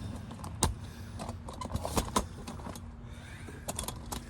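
Handling noise from a camera being moved and repositioned: scattered sharp clicks and knocks over a faint steady hum.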